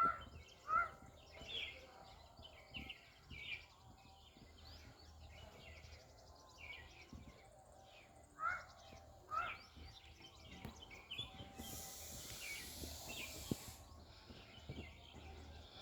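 Birds chirping outdoors: a scatter of short high chirps, with a few louder rising call notes about one second in and again around eight and nine seconds. A short burst of hiss comes about twelve seconds in and lasts under two seconds.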